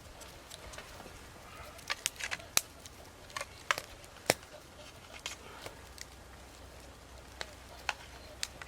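Wood campfire crackling, with irregular sharp pops and snaps from the burning wood, a few louder ones around the middle.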